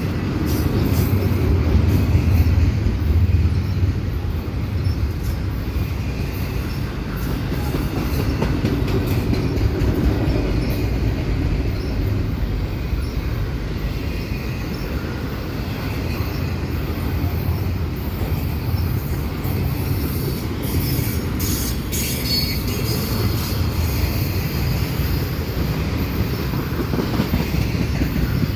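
Freight train cars rolling past: a steady low rumble of steel wheels on the rails with scattered clicks from the wheels crossing rail joints, and a thin high wheel squeal about two-thirds of the way through.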